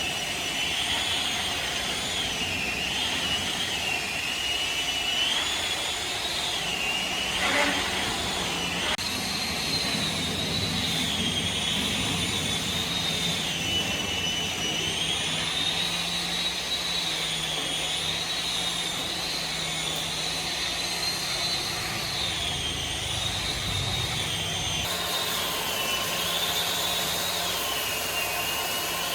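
Large powered saw cutting through timber: a steady high whine that wavers up and down in pitch as the blade loads, over a lower machine hum.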